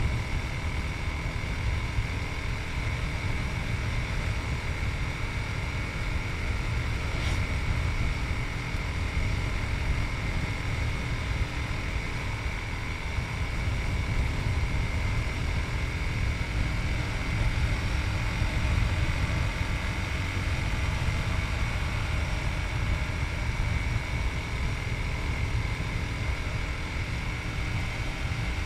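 Yamaha MT-03's 660cc single-cylinder engine running at a steady cruising speed, mixed with steady wind rush on the rider's chest-mounted camera.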